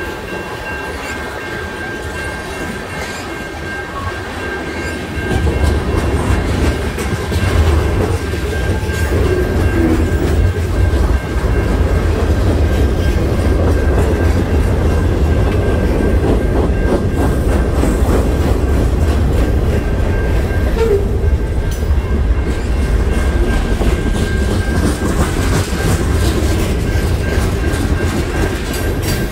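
CN freight train rolling past at track side, a steady loud rumble of wheels and cars that grows heavier about five seconds in, with a thin steady high ring running through it.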